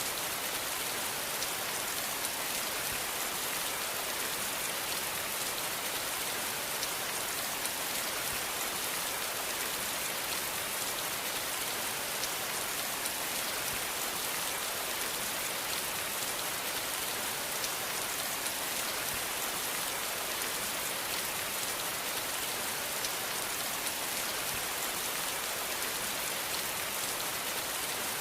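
Steady rainfall: an even hiss of rain with many small drop patters on a surface, no thunder.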